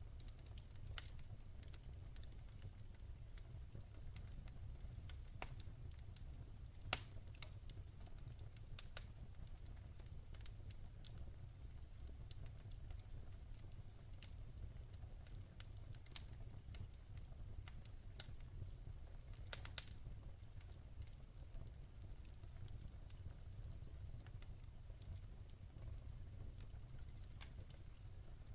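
Campfire crackling: irregular small pops and snaps, with a few louder ones, over a low steady rumble.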